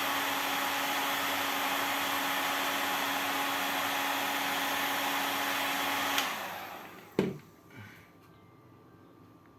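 Electric hot-air blower, used to heat plastic lids, runs with a steady rushing hum. About six seconds in it clicks off and its fan winds down. A sharp knock follows a second later.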